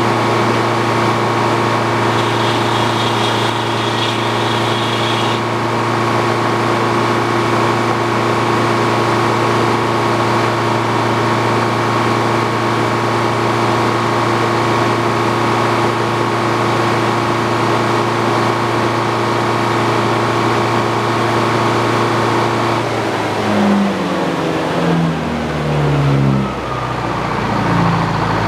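Engine powering an old Frick sawmill running at a steady speed, with the pitch swinging up and down a few times near the end as the speed changes.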